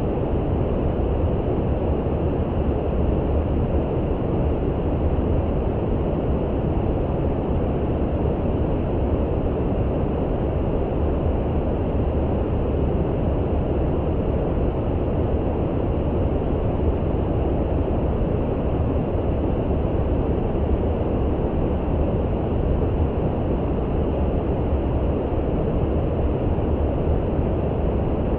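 Steady deep brown noise for sleep: an even rumbling hiss, heaviest in the bass and thinning out toward the treble, with no changes or events.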